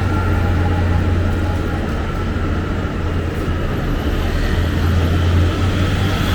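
City road traffic: a steady, loud low rumble of vehicle engines with road noise over it.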